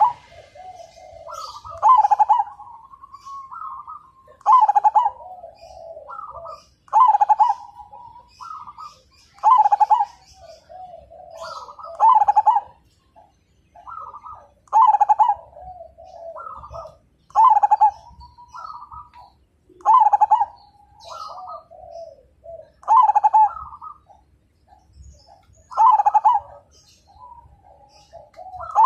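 Zebra dove (perkutut) singing its cooing song phrase over and over, a loud phrase about every two and a half seconds with softer coos between.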